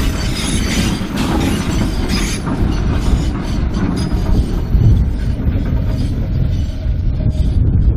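A 2 ft gauge sugar cane train rolling past, its wagons rumbling with a dense clatter of wheels over the rail joints. The clatter thins out after about two and a half seconds, and a faint high wheel squeal comes in partway through.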